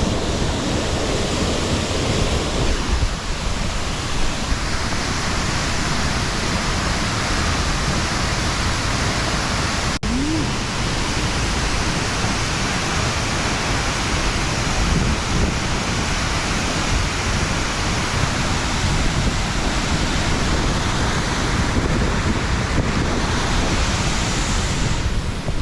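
Waterfall pouring into its plunge pool close by: a loud, steady rush of falling water and spray.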